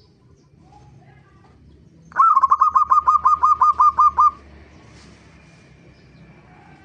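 Zebra dove (perkutut) calling: a fast, even run of about fourteen short notes, about seven a second, starting about two seconds in and stopping after about two seconds.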